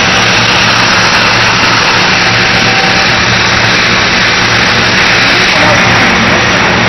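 Large automatic tandem welding equipment running: a loud, steady noise with a constant low hum.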